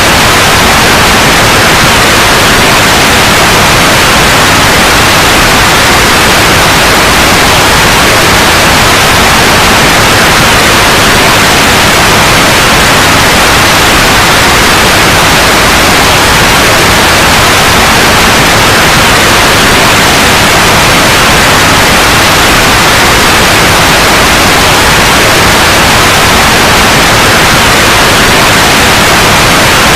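Loud, steady white noise: an even hiss across all pitches with no change.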